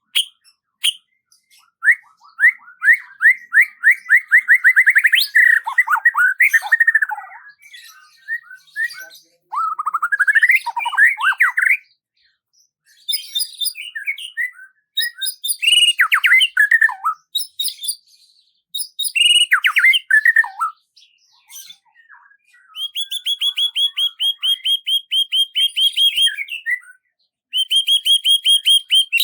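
A songbird singing in varied phrases separated by short pauses: fast trills, rising and falling slurred notes, and, late on, two even, rapid trills of high notes.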